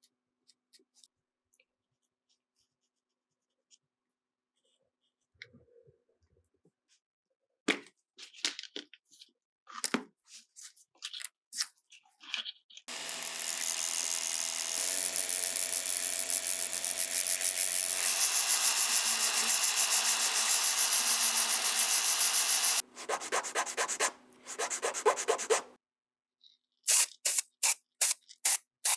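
Restoration work on small metal model-truck parts. Scattered light clicks give way to scraping and rubbing strokes. About halfway through, a small power tool runs steadily for about ten seconds, followed by quick back-and-forth rubbing strokes and a few separate strokes near the end.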